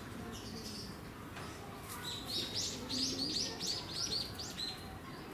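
A small bird chirping: one high chirp early on, then a quick run of about ten short chirps from about two seconds in.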